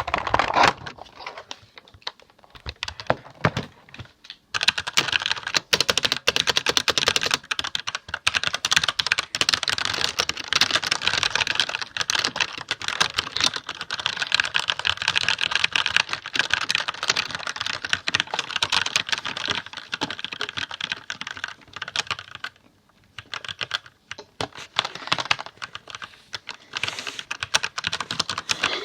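Computer keyboard being typed on, a dense run of fast key clicks. The typing is sparser for the first few seconds and stops for about a second and a half near the end before picking up again.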